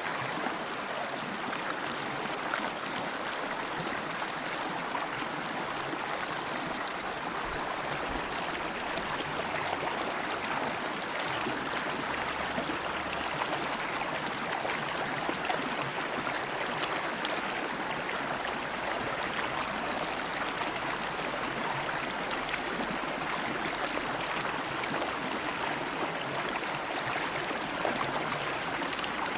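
River water flowing over rocks: a steady rushing with fine splashes and gurgles.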